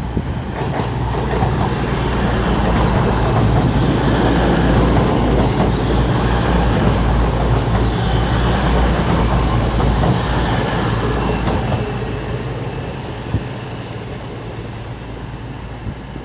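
Class 222 Meridian diesel-electric multiple unit running into the station, its underfloor diesel engines droning over the rumble of wheels on rail, growing louder as it comes past and easing off in the last few seconds, with brief high squeals along the way.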